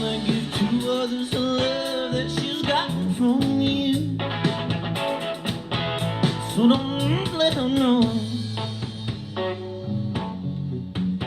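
Music playing through a Bang & Olufsen Beosound Explore portable Bluetooth speaker: a stretch without lyrics, led by guitar with gliding notes over bass and drums.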